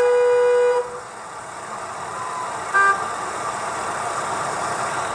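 Traffic-jam sound effect: a long car horn blast that stops about a second in, over steady street-traffic noise, with a second short horn toot near three seconds.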